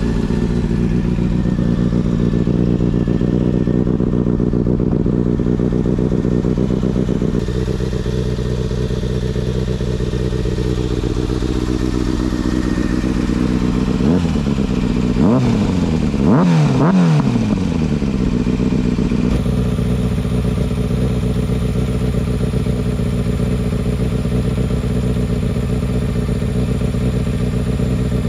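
Kawasaki ZX-6R's inline-four idling steadily through a Leo Vince SBK titanium exhaust, with a few quick throttle blips about halfway through, the revs rising and dropping back each time.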